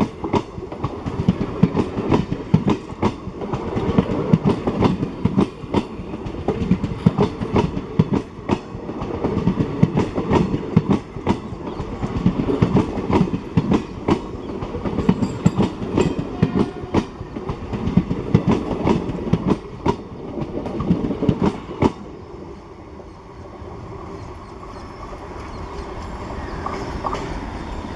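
Express train coaches rolling past, their wheels clattering steadily over the rail joints. About three-quarters of the way through, the clatter stops suddenly as the train clears, leaving a fainter steady rumble.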